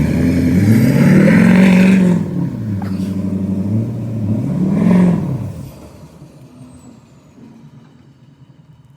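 Truck engine revving hard under load while trying to pull a loaded trailer free, its pitch rising and falling twice. The engine noise drops off sharply about five and a half seconds in.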